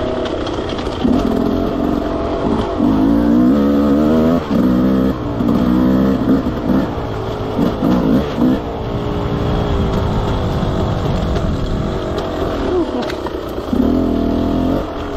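Enduro dirt bike engine revving up and down again and again as the throttle is opened and shut along a trail, over a steady rushing noise from the ride.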